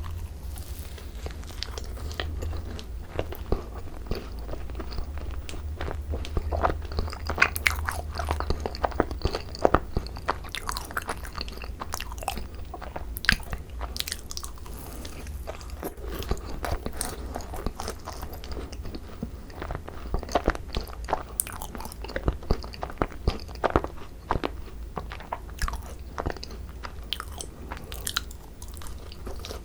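Close-miked biting and chewing of a thick-cream Korean macaron (ttungkaron), with many sharp crisp crunches from the shell and the cookie pieces mixed into the filling. A low steady hum sits underneath.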